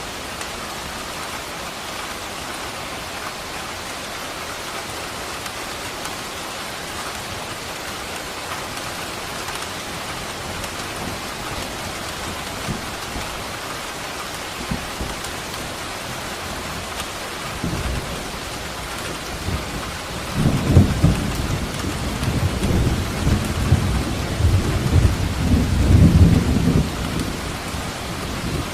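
Steady rain falling. About twenty seconds in, a long low roll of thunder builds and rumbles for several seconds before fading near the end.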